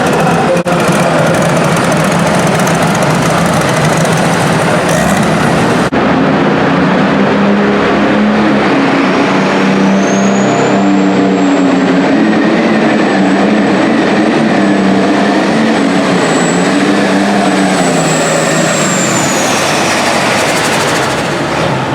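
Super stock pulling tractor running hard at full throttle, its engine loud and steady. About halfway through a high turbocharger whine rises, holds, then falls away near the end.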